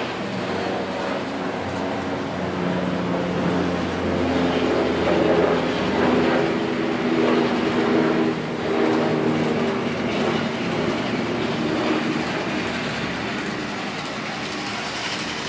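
Model train running along the layout track: a motor hum with several held tones and the rattle of wheels on the rails, growing louder toward the middle as it passes and easing off toward the end.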